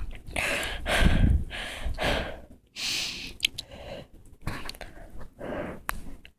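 A person breathing hard and audibly in the cold, a run of about eight rough breaths in and out close to the microphone.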